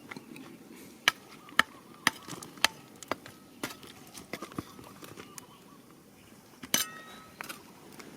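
Irregular sharp knocks and clinks of hard stones striking one another, roughly a dozen, with the loudest near the end leaving a short ringing tone.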